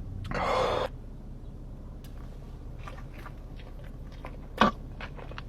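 Close-up eating of a Taco Bell taco: a loud half-second crunch near the start, then quiet chewing with small crackles and one sharp crunch about four and a half seconds in.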